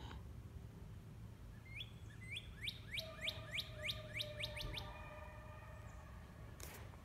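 A songbird singing a run of about ten quick, high, downslurred notes at about four a second, starting about two seconds in and stopping just past four seconds.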